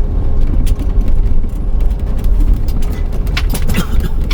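Cabin noise of a 2008 Pleasure-Way Ascent camper van driving on a sandy desert dirt road: a steady low rumble with frequent short rattles and clicks from the bumpy surface.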